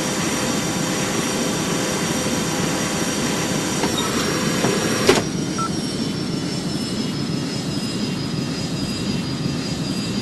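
Jet airliner engines running with a steady noise and a faint high whine. A single sharp click comes about five seconds in, after which the hiss is slightly softer.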